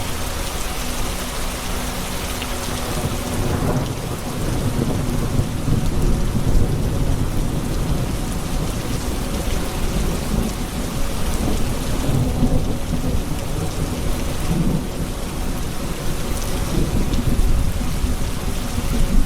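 Steady heavy rain falling, with thunder rumbling low underneath that builds about four seconds in and swells twice.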